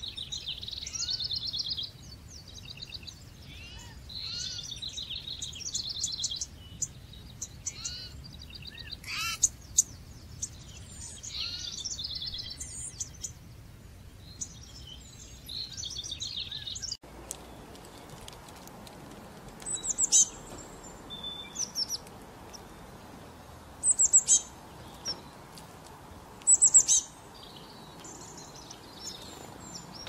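Songbirds singing in quick chirped and trilled phrases. About halfway through, the recording changes to a few loud, sharp, high-pitched calls over a steady background hiss.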